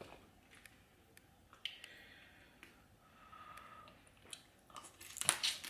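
Quiet close-up eating sounds from a seafood boil: soft chewing and scattered small clicks with breathing through the nose, then a cluster of louder sharp, noisy mouth and handling sounds about five seconds in.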